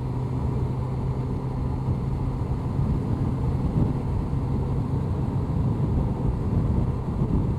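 Honda CBR1100XX Blackbird's inline-four engine running steadily at cruising speed, a constant low hum under wind and road noise.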